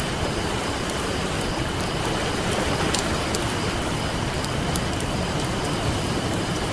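Steady rush of ocean surf with a wood campfire crackling over it in scattered sharp pops and snaps.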